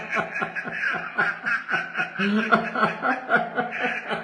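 A man laughing hard, a long unbroken run of quick chuckles, about four or five a second.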